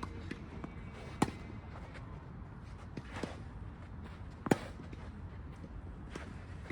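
Tennis ball struck by a racket twice, a little over three seconds apart, with fainter knocks of the ball bouncing in between.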